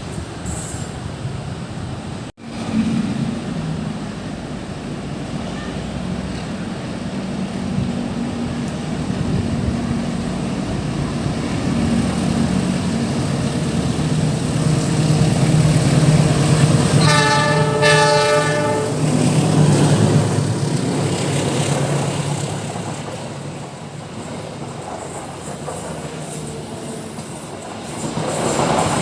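Train passing: a steady locomotive rumble and rolling noise that swells and then fades, with one horn blast of about two seconds a little past the middle.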